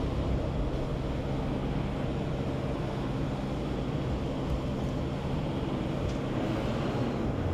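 Motorcycle engine running steadily, with no change in pitch.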